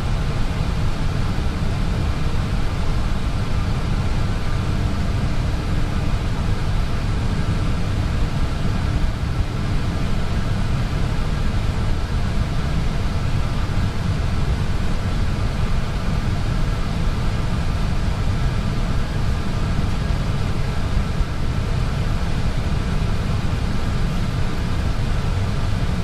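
Steady cockpit noise of an Airbus A320 taxiing: an even low rumble and hiss from the idling engines and the cabin air and avionics ventilation, with a faint steady hum on top.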